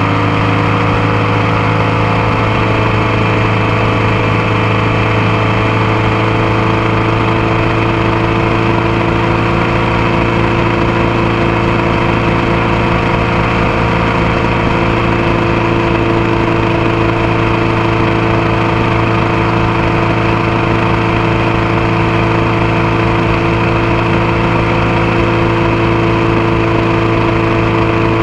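Motorcycle engine running steadily while riding, heard close up from the passenger foot peg, its pitch drifting slightly up and down with small throttle changes.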